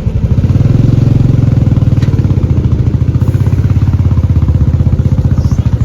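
Motorcycle engine running loud and close. Its even, rapid pulse swells about half a second in and then holds steady.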